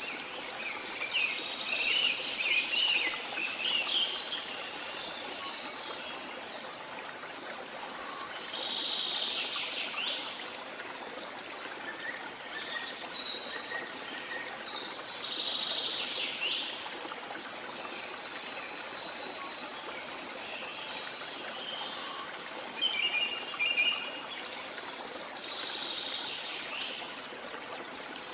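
Steady rush of flowing water, with birds singing over it in short chirping phrases: a busy run near the start, then single phrases about every six to seven seconds, the loudest near the end.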